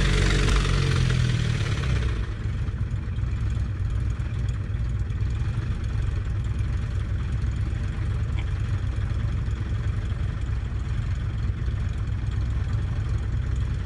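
A motorcycle's V-twin engine running for about two seconds, then, after a cut, a light propeller airplane's engine idling steadily while warming up before takeoff.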